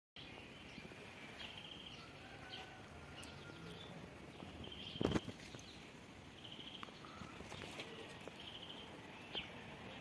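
Small birds chirping outdoors, short trilled calls repeating every second or two over a faint background hiss, with one brief thump about five seconds in.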